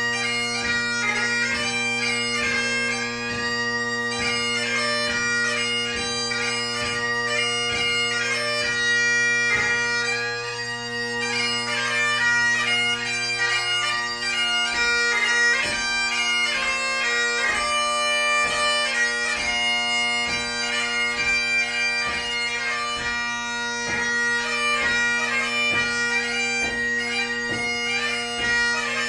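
Great Highland bagpipe playing a light-music tune: steady drones sounding under a fast, heavily ornamented chanter melody.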